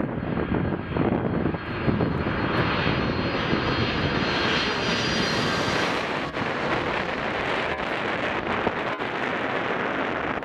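Boeing 767 jet engines passing on landing: a rushing roar with a high whine that builds to its loudest about five seconds in, then falls away. Wind buffets the microphone.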